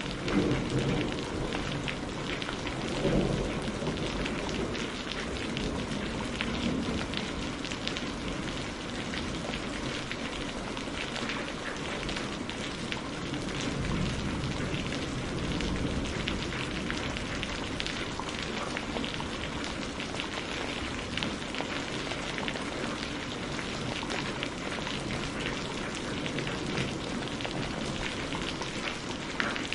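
Steady rain falling, with low rumbles of thunder twice in the first few seconds.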